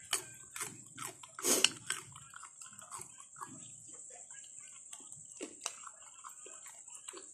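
Close-miked chewing and wet lip-smacking of a person eating papaya slices dipped in shrimp paste, in irregular short smacks with a louder bite about a second and a half in.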